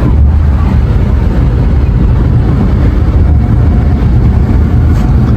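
Loud, steady low rumble of road noise from a moving car.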